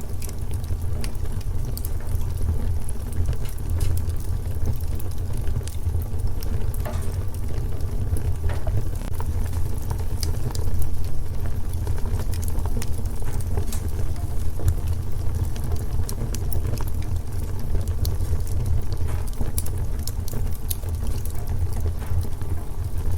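Wood fire in a fireplace crackling: scattered sharp snaps and pops over a steady low rumble of the burning fire.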